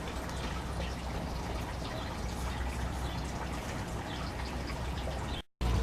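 Steady trickling, running water over a low steady hum. It cuts off abruptly near the end.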